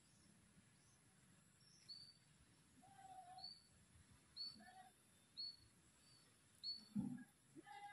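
Faint outdoor bird calls: a short high chirp repeated roughly once a second, with a few lower whistled notes between. There is a single low thump about seven seconds in.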